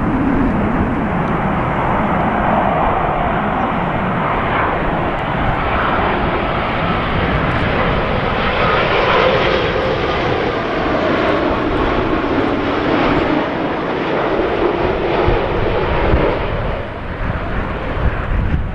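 Jet airliner's engines passing close on landing approach: a loud, steady rush whose tone slides slowly down in pitch as the aircraft goes by.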